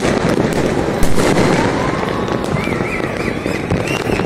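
Many fireworks and firecrackers going off across a city at once, a dense continuous crackle and popping, with one louder bang about a second in.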